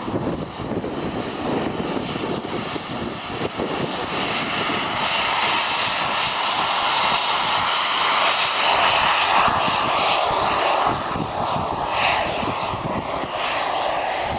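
Radio-controlled model aircraft engine running in flight, growing louder from a few seconds in and easing off near the end as the model passes.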